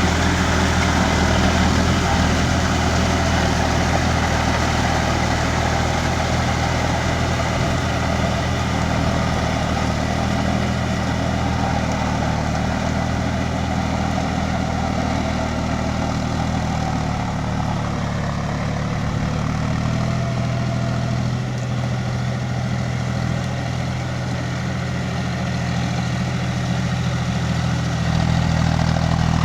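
Diesel tractor engine running steadily at a low, idling-like speed, easing off a little through the middle and picking up again near the end.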